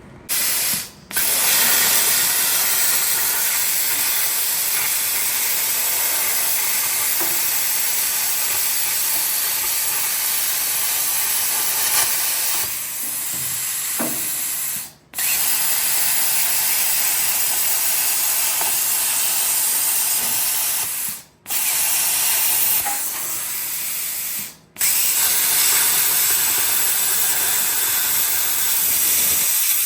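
Plasma cutter cutting rusted sheet metal out of a 1960 Ford F100 bed, a loud steady hiss of the arc and air jet. It stops abruptly and restarts four times, about a second in, near the middle and twice toward the end.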